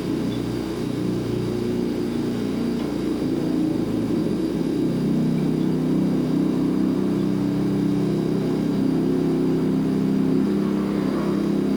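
Refrigerator compressor running with a steady low hum.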